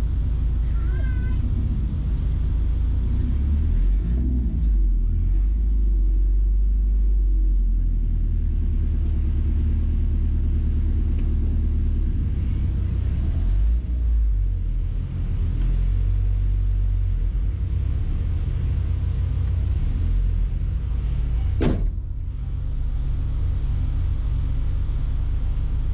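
Mazda B-series pickup engine, fuelled by a Holley Sniper EFI conversion, running with a steady low rumble that shifts pitch a few times. There is a brief wavering squeak about a second in and a single sharp click near the end.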